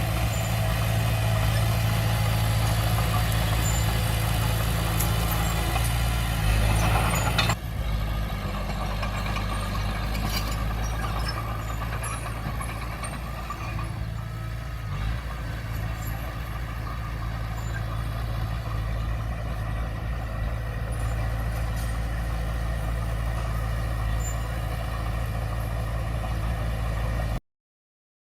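Komatsu D20P bulldozer's diesel engine running steadily. About seven and a half seconds in, the sound drops abruptly to a lower level and carries on steady until it cuts off suddenly near the end.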